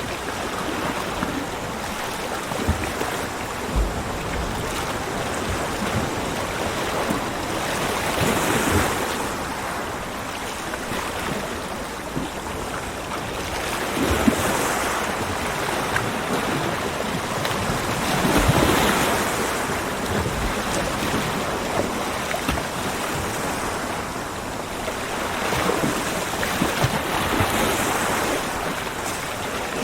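Ocean waves breaking and washing on a beach, a continuous rush that swells with a new wave every several seconds, loudest about two-thirds of the way through.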